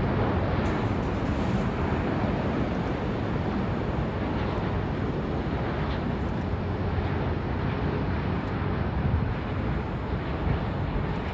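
Steady rumble of an Airbus A350-900 jet airliner on its landing approach, mixed with wind buffeting the microphone.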